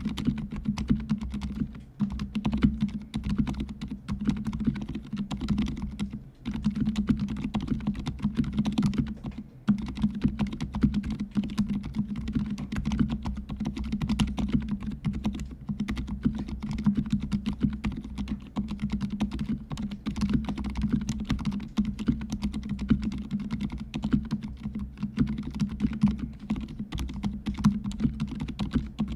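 Continuous fast typing on a fully lubricated mechanical keyboard with silent red linear switches: dense, muted keystrokes with a low, deep bottoming-out sound, broken by brief pauses about 2, 6 and 9.5 seconds in.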